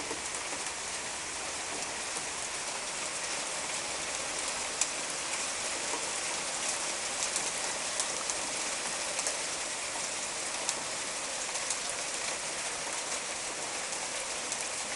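Small hailstones falling with rain: a dense, steady hiss scattered with many sharp little ticks of hail striking.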